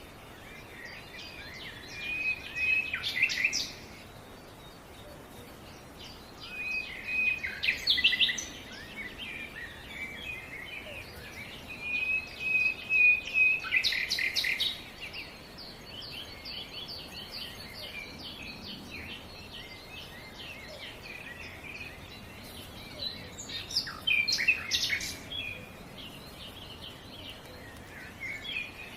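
Songbirds singing: four louder phrases of rapid notes a few seconds apart, over continuous fainter chirping.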